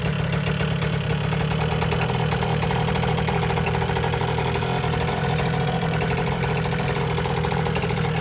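Motorbike engine idling steadily at an even, unchanging speed.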